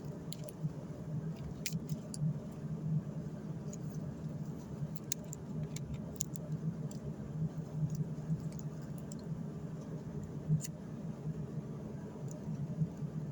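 An engine running with a steady low hum, with scattered light clicks and ticks over it.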